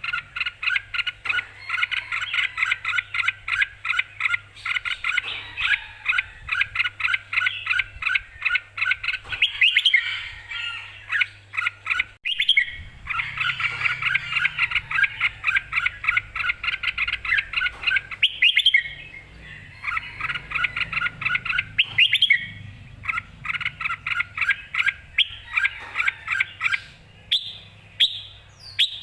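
Red-whiskered bulbul singing in rapid runs of repeated chirping notes, several a second, broken by a few short pauses.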